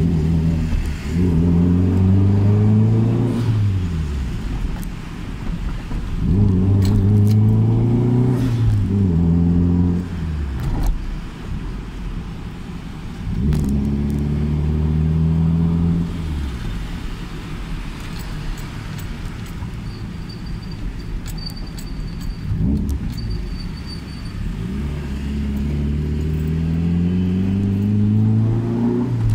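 Toyota Celica ST205's turbocharged four-cylinder engine, its exhaust freshly repaired, heard from inside the cabin while driving in traffic. The engine note rises in pitch in several pulls, each cut off by a gear change, with a lower, steadier stretch in the middle.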